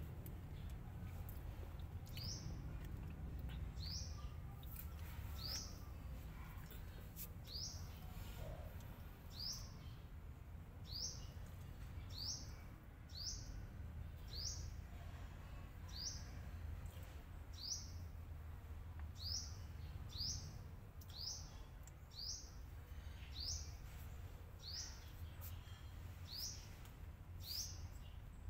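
A small bird chirping over and over, short high calls about one to two a second, over a low steady rumble.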